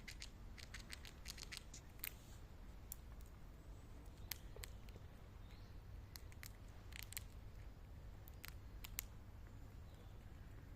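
Squirrel gnawing and cracking a nut shell with its teeth: quiet, sharp, irregular clicks and crunches, coming thickly in the first couple of seconds and then in small scattered groups.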